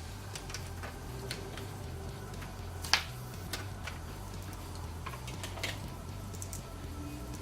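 Scattered light clicks and taps of computer parts and power cables being handled, with one sharper click about three seconds in, over a steady low hum.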